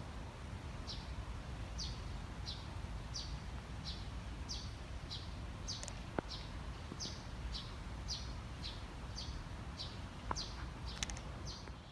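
A bird calling over and over, a short high chirp falling in pitch about every half second or so, over a steady low rumble.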